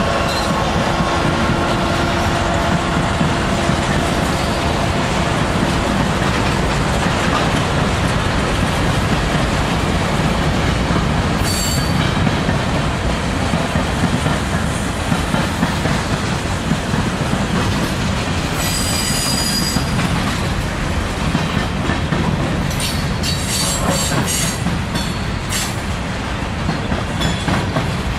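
Freight train rolling past: a steady rumble and rail clatter from the cars, with short high-pitched wheel squeals, one about a third of the way in, one about two-thirds in, and several close together near the end.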